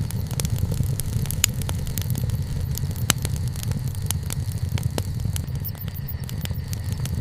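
Wood campfire burning: frequent sharp crackles and pops over a steady low rumble, with a louder pop about three seconds in.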